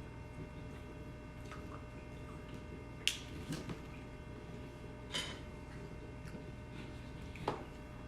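Eating sounds: a spoon clicking against a dish a few times, the sharpest click about three seconds in, with soft wet mouth sounds between.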